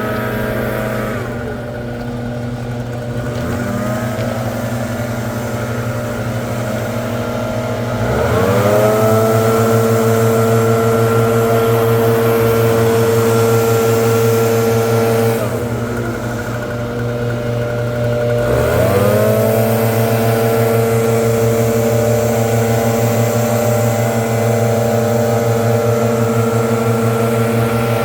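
Leaf blower's small engine running hard. It is throttled down about a second in and again around the middle, each time revving back up to full speed with a rising pitch.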